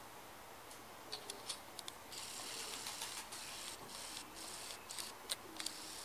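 Backyard bird sounds: a quick run of sharp high clicks and a dry rasping chatter, with a few short, low, falling hooting notes.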